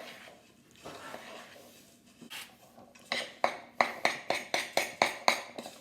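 A spoon stirring a stiff mixture of crushed digestive biscuits and melted butter in a saucepan: soft scraping at first, then about ten quick clinks of the spoon against the pan in the second half, roughly four a second.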